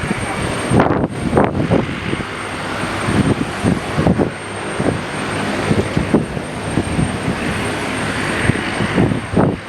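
Aircraft engines running, with strong gusty wind buffeting the microphone in irregular low rumbles.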